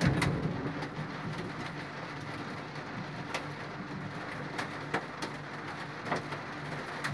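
Steady rain falling, with scattered sharp taps of drops striking a hard surface and a low steady hum underneath.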